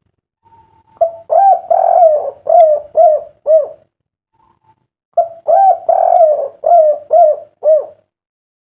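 Spotted dove (derkuku) cooing: two song phrases a few seconds apart, each a run of hooting notes with a longer drawn note in the middle, ending in three short separate 'kuk' notes, the prized 'kuk 3' song style.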